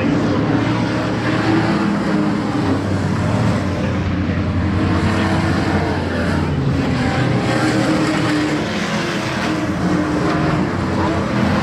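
Race trucks' engines running on track, several at once, their pitch shifting up and down as they go.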